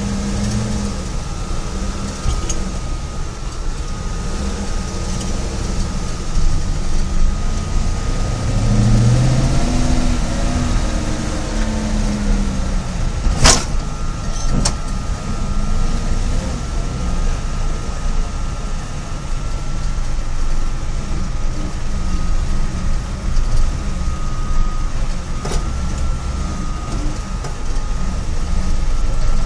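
Rebuilt engine of a GAZ-66 truck running steadily, with its fan making most of the noise. A brief rise and fall in pitch comes about a third of the way in, and a single sharp click comes about halfway.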